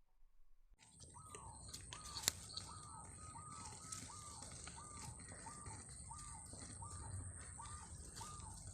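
A bird repeating a short, arched call about twice a second, over a steady, thin, high tone. There is one sharp click about two seconds in.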